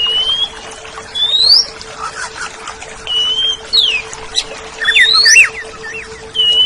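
Oriental magpie-robin (kacer) singing: a series of clear whistles, some sweeping sharply upward, some held flat and one falling, with a quick run of twisting notes about five seconds in. A steady low hum runs underneath.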